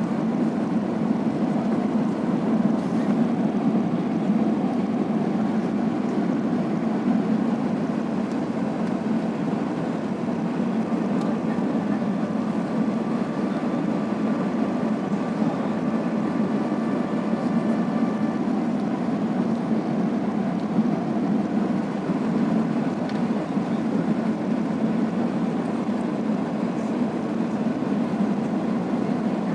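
Steady cabin noise inside an Airbus A380-800 on its landing approach with flaps extended: a low, even rush of airflow and engine noise. A faint steady whine joins for several seconds in the middle.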